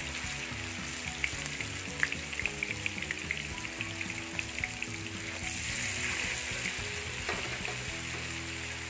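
Slices of firm tofu shallow-frying in oil in a non-stick pan, a steady sizzle with frequent small crackles as they brown.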